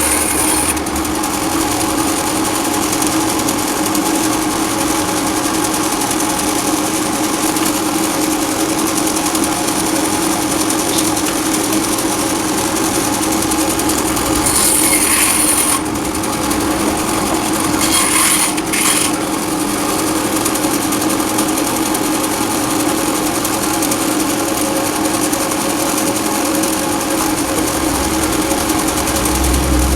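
Wood lathe running with a steady motor hum and the hiss of a turning tool scraping the spinning wood, which grows brighter briefly about halfway through and again a few seconds later.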